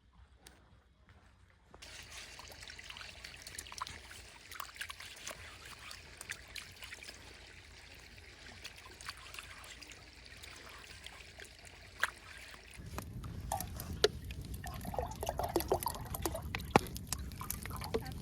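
Meatballs and sausage sizzling on a hot natural stone slab: a steady hiss with many small pops of fat. About thirteen seconds in, a lower noise joins and the pops grow louder.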